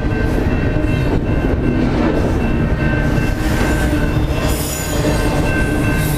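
A train rolling past: the steady, continuous rumble of rail cars, with a thin steady squeal of wheels on the rails above it.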